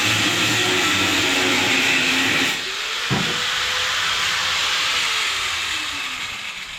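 Power cutting tool, most likely an angle grinder with a cutoff wheel, cutting through a weld on steel exhaust tubing with a loud hissing grind. It stops about two and a half seconds in, and its whine fades and falls in pitch as it spins down, with a brief knock just after the cut stops.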